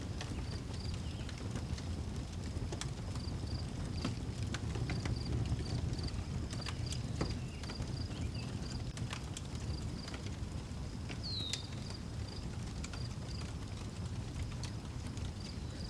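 Wood fire crackling, with scattered sharp pops over a low steady rumble, while crickets chirp in an even pulsed rhythm of two or three chirps a second. A single short falling bird note comes about eleven seconds in.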